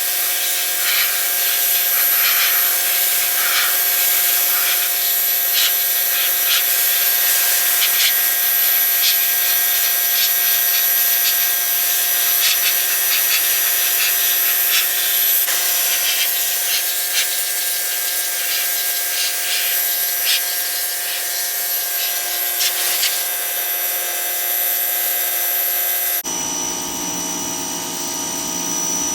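Pressure washer running with a steady motor whine while its jet hisses against the driveway. The sound changes abruptly about 26 seconds in to a different steady motor tone.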